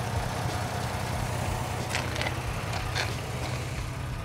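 Ford Ranger Raptor engine idling: a steady low hum, with a few faint ticks.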